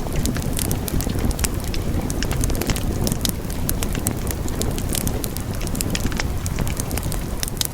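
Wood fire burning steadily in a fireplace, a low rumble of the flames with frequent sharp crackles and pops of the burning logs, several a second.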